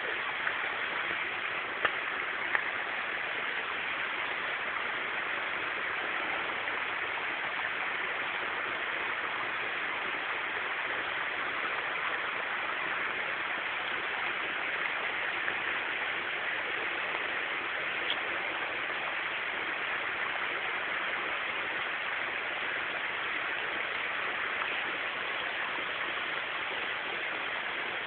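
Steady rush of flowing stream water, with a couple of faint clicks in the first few seconds.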